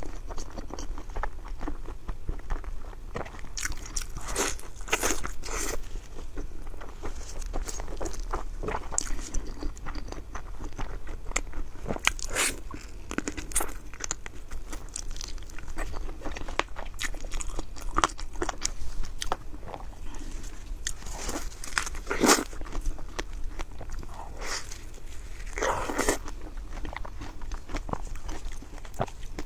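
Close-miked eating: a person chewing and biting food with irregular crunching and wet mouth clicks, and a few louder crunches scattered through.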